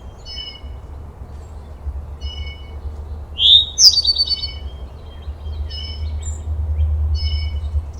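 Birds chirping: short chirps repeating every second or so, with a louder sweeping call about three and a half seconds in followed by a quick run of notes. A steady low rumble sits underneath.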